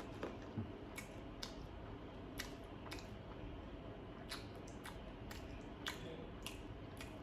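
Faint close-up eating sounds: scattered soft clicks and smacks of chewing, about a dozen at irregular intervals, over low room noise.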